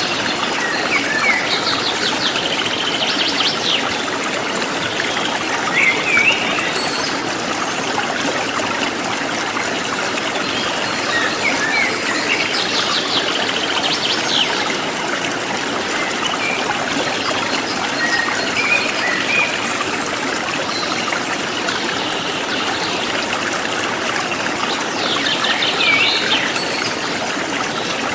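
Forest stream flowing in a steady rush, with small birds chirping and giving short rapid trills every few seconds above it.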